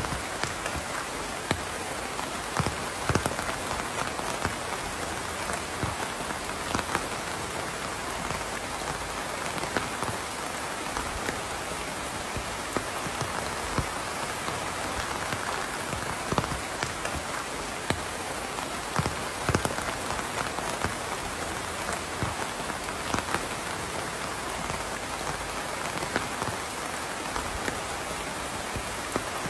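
Steady rain falling on a surface: an even hiss with many separate heavier drops ticking through it.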